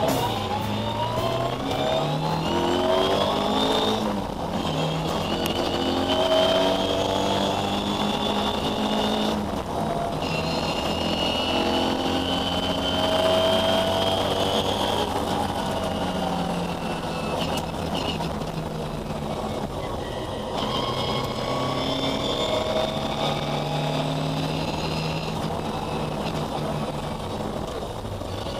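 Historic Ford Escort rally car's engine, heard from inside the cabin, running hard at full throttle on a stage. Its pitch climbs through each gear and breaks off several times at gear changes.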